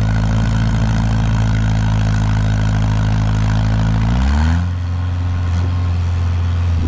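Engine held at high revs under load, then its pitch falls about four seconds in as the revs drop back to a lower steady speed, during a chain pull on a stuck forklift.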